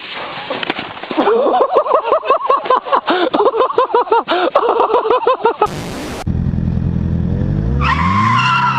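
A rapid string of short vocal cries that rise and fall in pitch, about five a second, cut off by a brief loud burst of noise; then a motor vehicle engine running, its pitch rising near the end as it revs.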